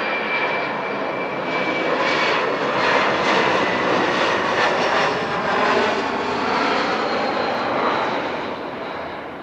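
An airliner passing low overhead on landing approach, its engines roaring louder through the first few seconds, then fading as it goes by. A thin high whine sounds over the roar for the first two seconds.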